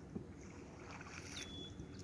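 Water splashing as a single oar paddles a small floating sled, over a low rumble of wind on the microphone. About one and a half seconds in, a high whistled note drops and then holds briefly.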